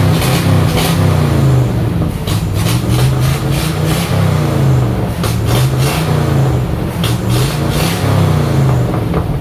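A 1962 pickup truck's engine revved repeatedly while still warming up from cold, its pitch rising and falling six or seven times. The exhaust has a little pop to it.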